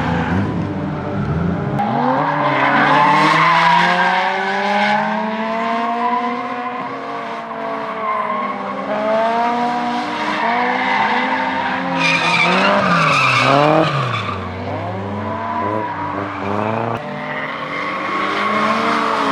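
Turbocharged Toyota 2JZ straight-six drift cars on track. The engine note rises and falls again and again as the throttle is worked through the slides, with tyres squealing.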